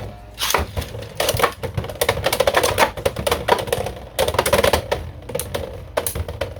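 Two Beyblade X spinning tops, Hellsscythe 4-60T and Dransword 3-60F, battling in a plastic stadium. From about half a second in, a rapid, irregular run of sharp clacks as they collide, over the steady whir of the tops spinning.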